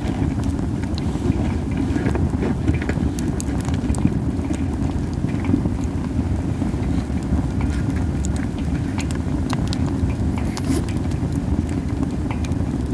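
Masaki (Japanese spindle tree) wood burning in an open fire, crackling with scattered sharp pops over a steady low rumble.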